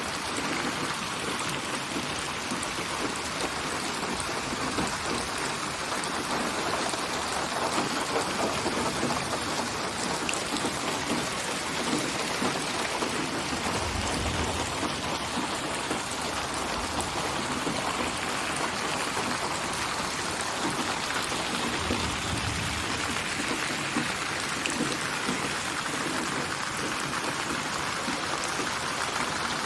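Steady rain falling, in a synthesized 8D binaural rain ambience built from many layered rain recordings. Short low rumbles rise under it about halfway through and again later.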